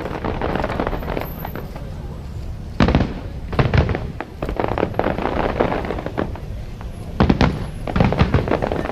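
Aerial fireworks bursting: a sudden cluster of loud bangs about three seconds in and another about seven seconds in, with rapid crackling between them.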